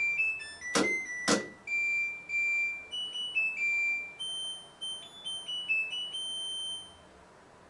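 LG washing machine's electronic beeper playing its end-of-cycle melody, a tune of pure high beeping notes that stops about seven seconds in. Two sharp clicks come near the start, a little over half a second apart.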